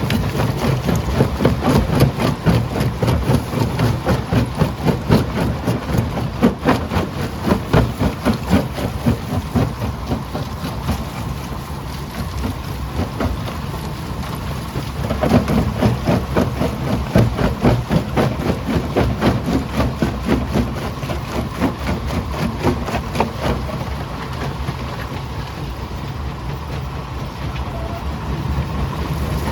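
Primary jaw crusher crushing quarry rock: a dense, continuous clatter of stone cracking and knocking over a steady machine drone. The clatter is busiest in the first third and again around the middle, easing in between and toward the end.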